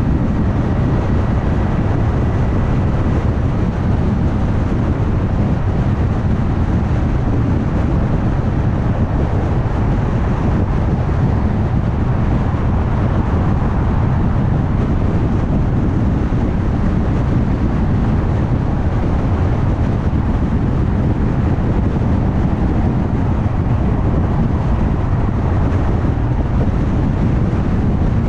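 Steady tyre and engine noise of a car driving at highway speed, with no change in pace. A faint thin high tone lasts for the first three seconds or so.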